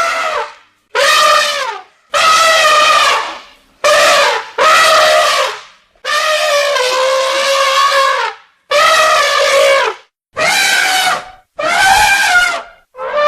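Elephants trumpeting: a run of about nine loud, brassy calls, each lasting half a second to two seconds with short breaks between them. The longest call comes about midway.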